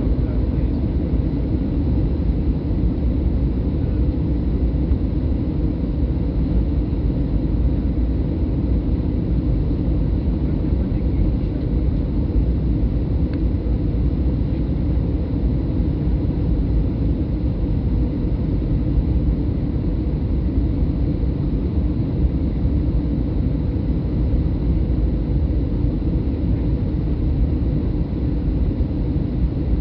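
Steady cabin noise of a Boeing 737-800 in flight: engine and airflow rumble heard from inside the cabin, even throughout, with a faint steady hum.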